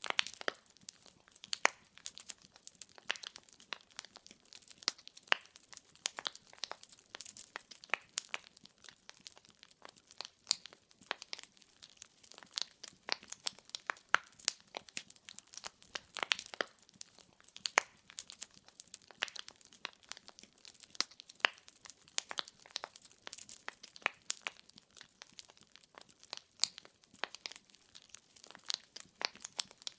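Wood logs burning in a fireplace, crackling and popping in quick, irregular snaps over a soft hiss of flame.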